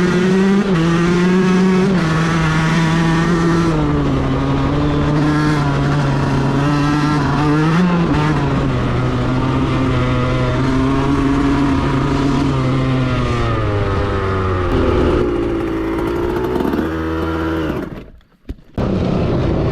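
Yamaha YZ125 single-cylinder two-stroke dirt bike engine running under riding load, its revs rising and falling repeatedly as the rider throttles on and off. The sound cuts out briefly near the end, then returns.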